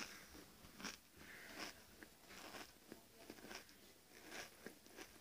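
Faint crunching of a mouthful of Pringles potato crisps being chewed, a short crunch roughly every half second to second.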